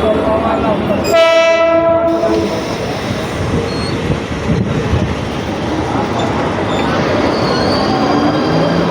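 Mumbai suburban local electric train running with a steady rumble, its horn sounding once for about a second and a half, starting about a second in.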